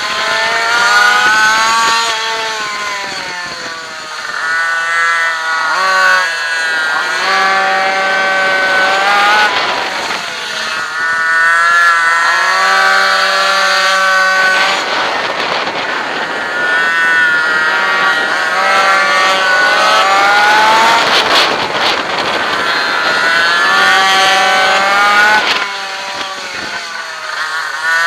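Onboard sound of a racing minimoto's small two-stroke engine, revved hard. Its pitch climbs steeply as it accelerates out of each corner and falls as it slows for the next, about six times in a row.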